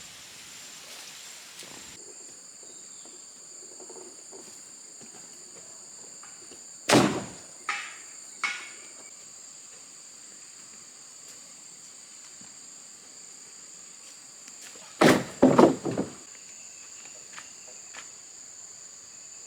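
Insects chirring steadily at a high pitch, broken twice by loud knocks: three about seven to eight and a half seconds in, and a quick group of four about fifteen seconds in.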